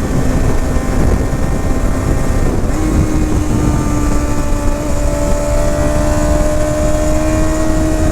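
Honda CBR 650R's inline-four engine and exhaust under way, heard on board at speed with wind noise. The engine note steps up in pitch about three seconds in, then climbs slowly.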